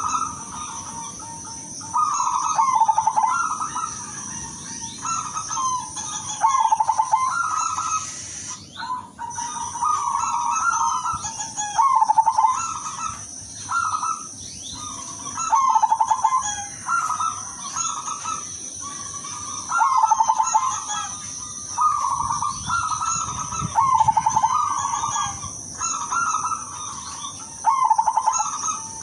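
Zebra dove (perkutut) of the silver colour variety singing: short rolling, stuttering coo phrases repeated every second or two. A steady high-pitched whine sounds underneath.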